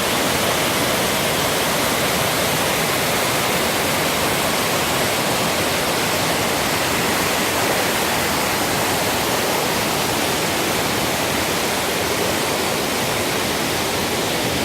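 Waterfall rushing: a loud, steady roar of falling water, unchanging throughout.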